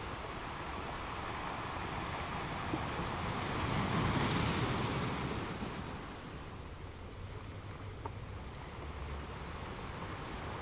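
Sea surf and wind, a steady rushing that swells to a peak about four seconds in, as a wave washes up, and eases back by six seconds.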